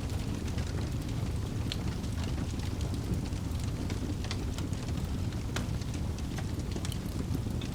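Wood fire burning in a fireplace: a steady low rush of flame with scattered sharp crackles and pops, a few each second.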